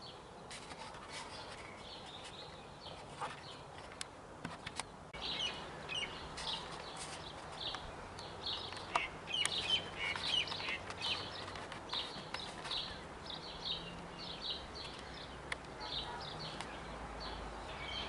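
Wild birds calling with many short, high chirps, sparse at first and coming thick and fast from about five seconds in.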